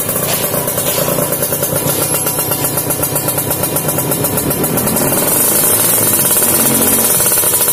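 Kawasaki Ninja 150 two-stroke motorcycle engine running through an aftermarket racing exhaust, with a fast pulsing beat. It gets louder about five seconds in.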